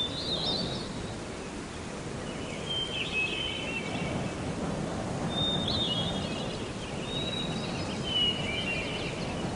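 Outdoor nature ambience: birds give short, high chirping calls every couple of seconds over a steady low background hiss.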